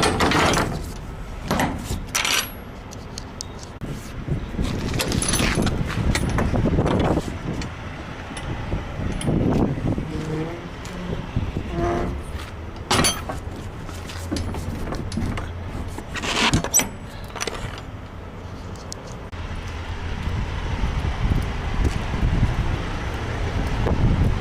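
Semi truck's diesel engine running low and steady, with scattered clicks, knocks and rattles over it.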